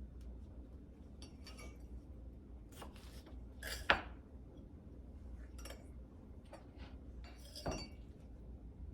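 Kitchen utensils clinking and scraping in scattered short strokes while cucumbers are being sliced. The loudest is a sharp clink about four seconds in, with another near the end.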